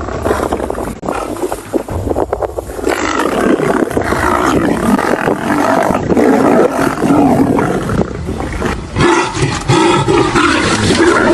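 Lions roaring and growling loudly and almost without pause, the sound of lions fighting.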